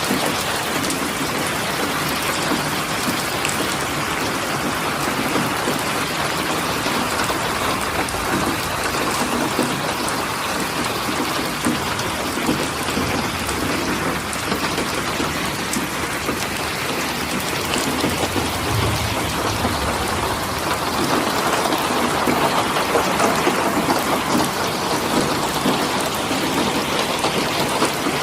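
Steady heavy rain falling, a dense even hiss with individual drops ticking through it. A brief low rumble comes about two-thirds of the way in, and the rain grows a little louder after it.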